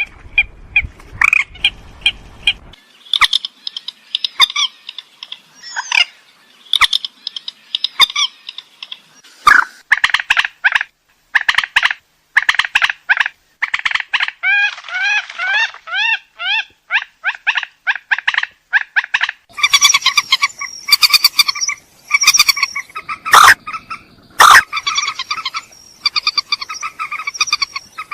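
Purple swamphen calling: a long series of loud, harsh, short calls repeated one after another, with a quick run of rising notes midway and denser calling near the end.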